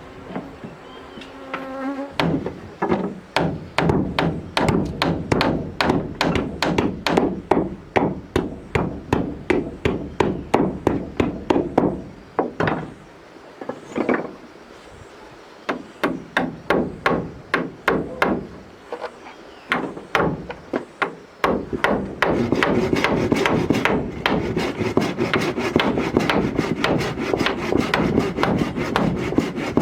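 Hammer striking wood over and over, about three blows a second, in two runs with a short pause between. About two-thirds of the way through the hammering stops and a saw starts cutting wood with quick, steady strokes.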